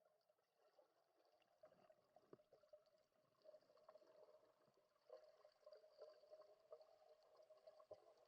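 Very faint water sounds, with a steady low hum and scattered small clicks and ticks.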